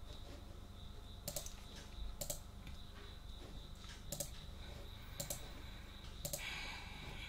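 Single sharp clicks of a computer keyboard and mouse, spaced about a second apart, with a short run of denser clicking near the end.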